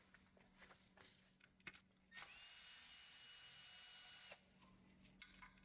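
Power drill-driver spinning out one of the 8mm sump bolts on a Peugeot 1.2 PureTech: a single steady whine of about two seconds that starts and stops sharply, after a few light clicks.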